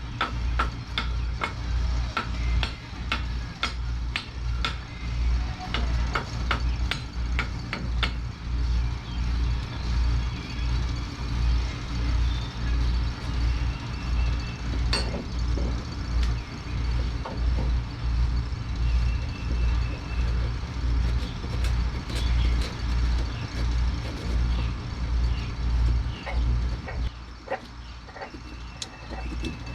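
A low, pulsing mechanical rumble, about one throb a second, with scattered sharp clicks and taps, most of them in the first eight seconds.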